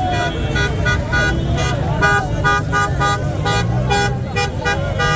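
Many car horns honking in short, overlapping blasts, with people shouting, over a steady rumble of traffic: celebratory honking after a football victory.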